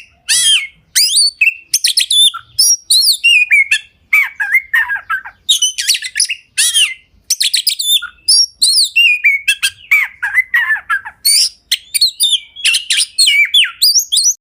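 A songbird singing loudly and close by: a long, rapid, varied song of chirps, trills and sweeping whistled notes, broken by a few brief pauses.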